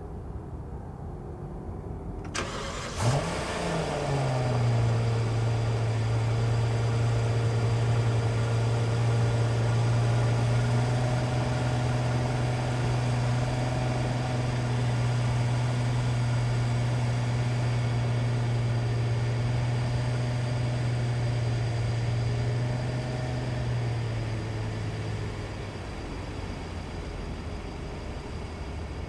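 2014 Rolls-Royce Ghost's twin-turbo V12 cold-starting: the starter turns briefly and the engine catches about three seconds in with a short rise in revs. It then settles into a steady high cold idle, which drops to a lower idle near the end.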